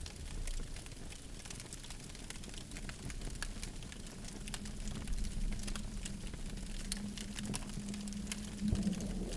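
Campfire burning, with frequent sharp crackles and pops of wood over a low rumble of flame. A faint steady low hum comes in about halfway through.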